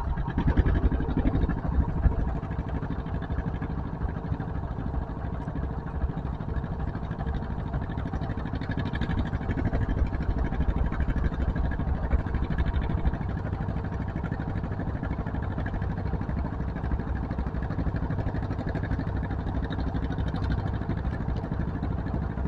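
Tractor engine running steadily with a low, even drone, a little louder in the first couple of seconds.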